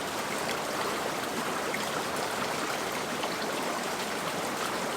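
A small mountain creek running steadily over rocks, a constant rushing babble.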